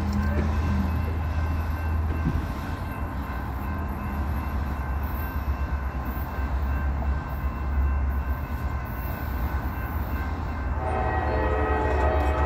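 Approaching train locomotive with a steady low rumble. About eleven seconds in, its multi-note horn starts sounding and holds.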